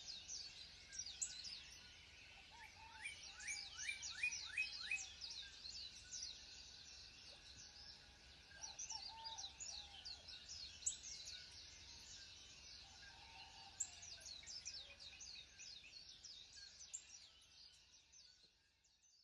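Faint chorus of several small birds singing and chirping, with many quick falling notes overlapping. It fades out near the end.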